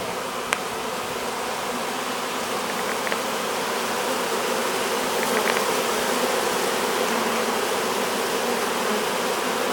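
Steady buzzing of a honey bee swarm, thousands of bees crowding into a hive, many of them scent fanning their wings at the entrance. A single faint click about half a second in.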